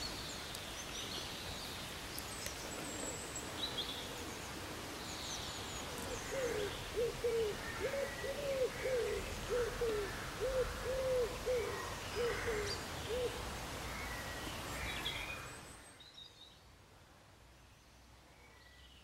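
Birdsong ambience: small birds chirping over a steady hiss. In the middle of it a larger bird gives a run of about ten low, evenly spaced hoots. The hiss falls away sharply near the end, leaving quieter, fainter chirps.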